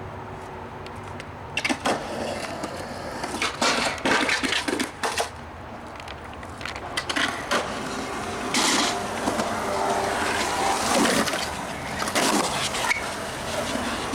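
Skateboard rolling, with several sharp clacks and slaps of the board hitting the ground in the first half, then a longer stretch of wheels running.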